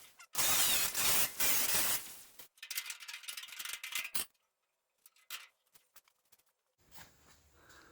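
Cut-off wheel grinding through the rusted steel angle iron of a 1926 Model T body in short loud bursts, stopping about two seconds in. Lighter metallic clinks and scraping follow, then near silence.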